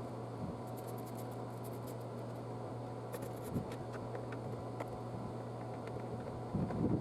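Faint scattered clicks, scratches and small knocks from hands handling the plastic air filter housing and intake parts, over a steady low hum.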